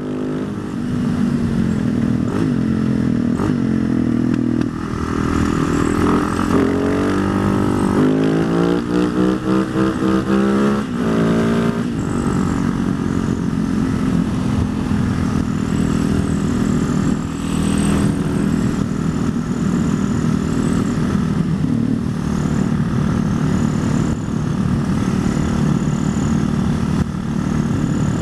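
Husaberg supermoto's single-cylinder engine under way, revving hard through a run of quick rises and drops in pitch from about eight to twelve seconds in, as on up-shifts, then pulling at a steadier pitch.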